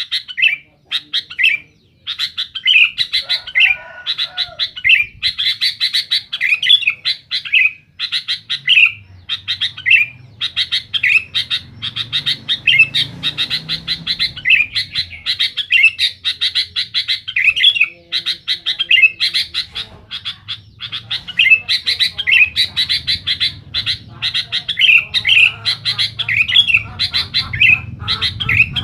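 Sooty-headed bulbul (kutilang) singing without a break in quick, busy chirping phrases, one after another. This is the vigorous 'gacor' song that is played to provoke other bulbuls into answering.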